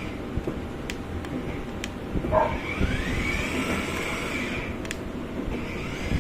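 Children's ride-on electric toy car driving under remote control: its motors whine and its wheels rumble steadily, the whine rising in pitch about two and a half seconds in and holding for about two seconds. A dog barks once as the whine rises.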